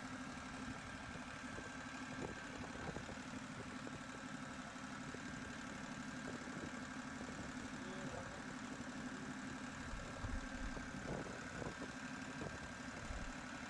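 Tractor engine running steadily with an even hum and a few faint knocks near the end.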